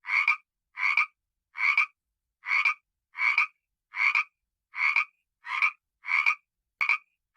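A frog croaking over and over: about ten short croaks, evenly spaced at roughly three every two seconds, with silence between them.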